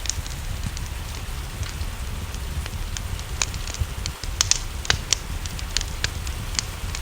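Wood fire crackling in a fireplace, with sharp, irregular pops several times a second, over a steady hiss of rain and a low rumble.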